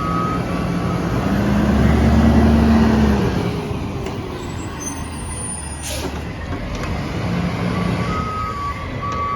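Garbage truck engine running and revving up for a couple of seconds before settling, with a short burst of air-brake hiss in the middle. The truck's reversing beeps sound at the start and start again near the end.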